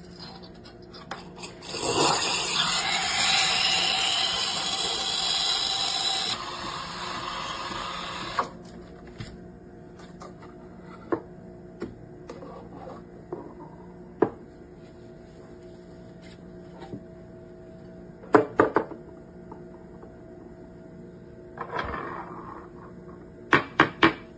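De'Longhi Dedica Duo espresso machine's steam wand hissing for about four seconds, with gliding squeals over the hiss, then running quieter and duller for two more seconds before cutting off. Scattered clicks and clinks follow, with a short hiss burst near the end and a quick run of clicks at the end.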